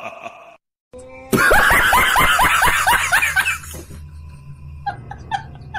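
A burst of loud laughter, a quick run of falling 'ha-ha' notes, starting abruptly about a second and a half in after a moment of dead silence. Near the end a quieter pulsing sound repeats about four times a second over a low hum.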